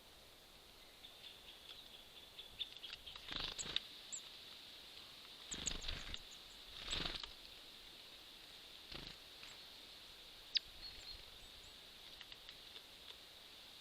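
Small birds at a wooden seed feeder: a few faint knocks and scrapes as they land, move about and work at the seeds, with a few brief high chirps, over the steady hiss of a trail camera's microphone.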